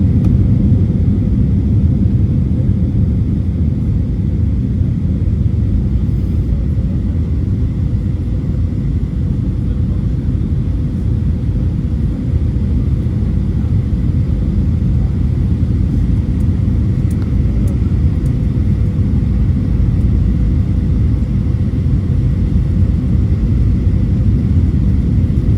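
Steady low rumble of engine and airflow noise inside the passenger cabin of an Airbus A321 in flight, with a faint steady hum on top.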